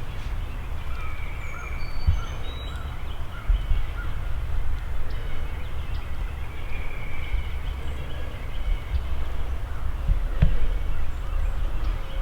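Wild birds calling, with scattered short chirps and whistled notes, over a steady low rumble and a few dull thumps on the microphone.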